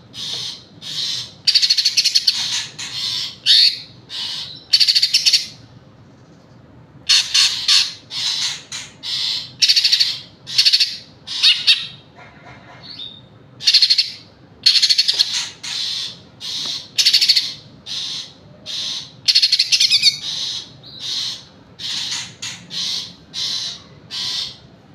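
Greater green leafbird (cucak hijau) singing loud, fast phrases of rapid notes, each about a second long, with short pauses between them. It is the full, clear song that bird keepers play as a master recording to train other birds.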